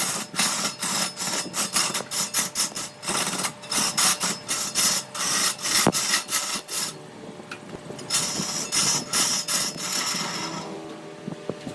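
A hand tool rasping or sawing at wood in quick repeated strokes, several a second. The strokes pause about seven seconds in, start again, and stop near the end, leaving a low steady hum.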